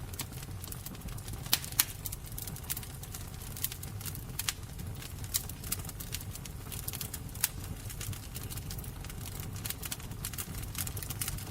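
Wood fire crackling and popping, with sharp irregular snaps over a steady low rumble of burning.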